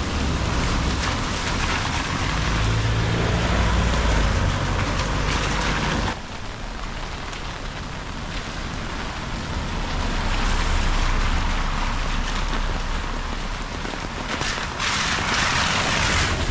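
Steady rain, with a motor vehicle's engine running by on the wet road for the first six seconds. The sound drops abruptly about six seconds in, and a louder hiss swells near the end.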